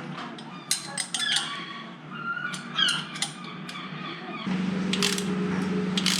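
Hand tools working a motorcycle exhaust stud into the cylinder head: a run of metal clicks and short squeaks as it binds in the threads, a sign the hole may still hold a piece of the old broken stud. A steady low hum starts suddenly about two-thirds of the way through.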